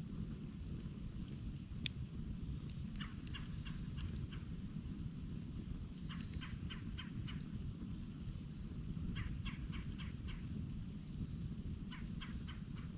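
Campfire burning with a steady low rumble, a sharp pop about two seconds in, and several short runs of quick crackling ticks, about four or five a second.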